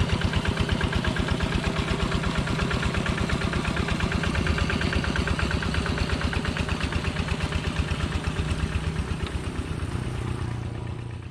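Single-cylinder diesel engine of a Kubota two-wheel walk-behind tractor idling with a steady beat of about five pulses a second, fading away near the end.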